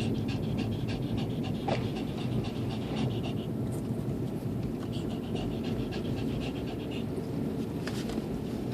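Cabin road noise of a Lexus IS250 AWD driving through deep snow, a steady low rumble. Over it, a rapid rhythmic hissing comes in two stretches, one at the start and one in the middle, with a few sharp clicks.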